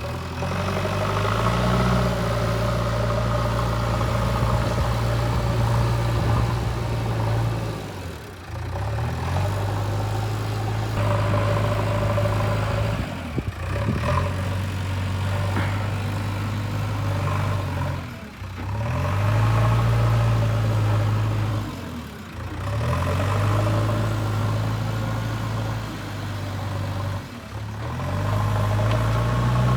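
JCB 3DX backhoe loader's diesel engine running steadily under load while dozing earth, dropping away briefly about every five seconds and then climbing back up in pitch.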